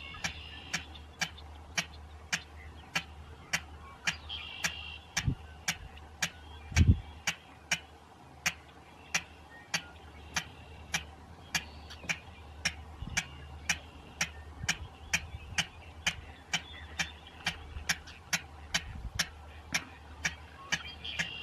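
Sharp, evenly spaced clacks, about two a second, like a lato-lato clacker toy: the clacking call of a king clapper rail. A single low thump about seven seconds in is the loudest sound.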